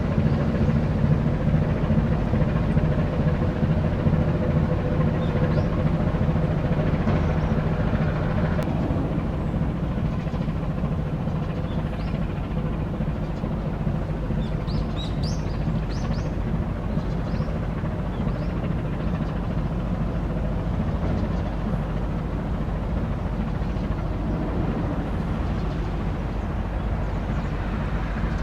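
Low, steady engine drone of a passing coastal tanker's diesel, heard from shore, with a few faint bird chirps around the middle.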